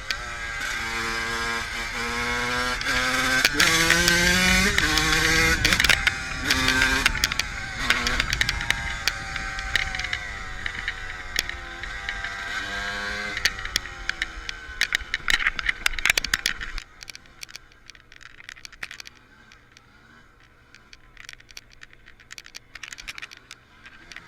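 Dirt bike engine revving up and down repeatedly, pitch climbing and dropping as it goes through the gears. About two-thirds of the way in the engine sound cuts off suddenly, leaving scattered light crackles and ticks.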